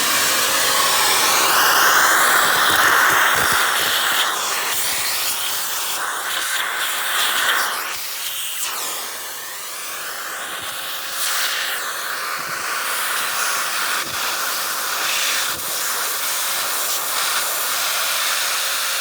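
Vacuum cleaner running, sucking loose coffee grounds out of a coffee grinder's top and burr compartment. Its whine rises and falls in pitch as the nozzle is moved about and partly blocked, and it goes quieter for a couple of seconds about halfway through.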